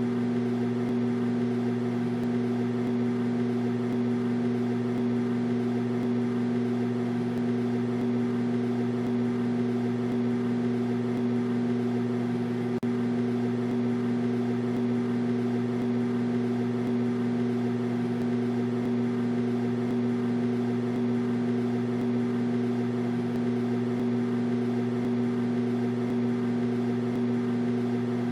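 Microwave oven running: a steady, even hum that does not change.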